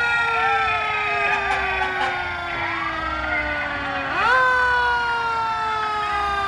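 Fire truck siren sounding with a quick rise in pitch and then a long, slow glide down, repeating about four seconds in.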